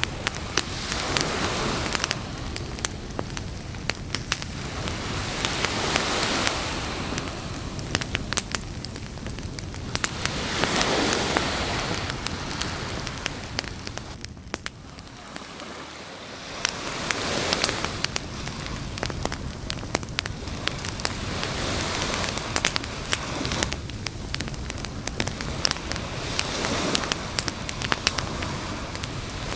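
Campfire crackling with frequent sharp pops, over surf washing in and out in swells about every five seconds.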